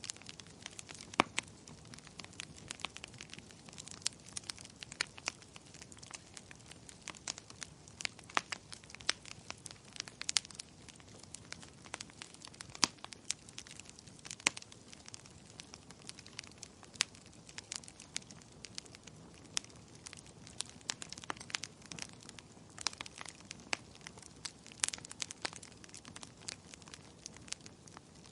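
Wood fire in a fireplace crackling, with irregular sharp pops and snaps, several a second, over a low steady rush of flame.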